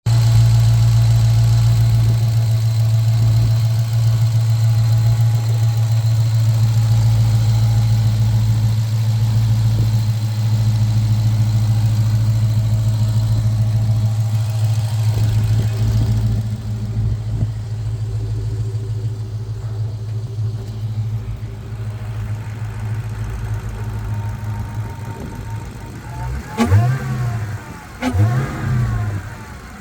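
An engine idling steadily, then blipped twice near the end, its pitch rising and falling quickly each time.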